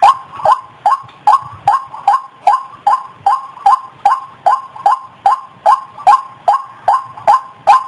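White-breasted waterhen (ruak-ruak) calling: a fast, monotonous run of short notes, about two and a half a second, each dropping in pitch, over a held tone.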